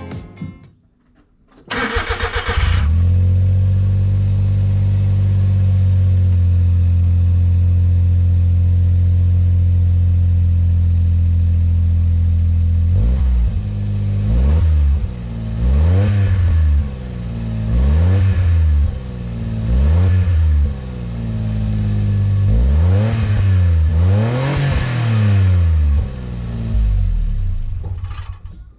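Suzuki Carry kei truck's 660 cc three-cylinder engine started through a newly fitted aftermarket muffler. It catches about two seconds in and idles steadily. From about halfway it is blipped repeatedly, each rev rising and dropping back to idle.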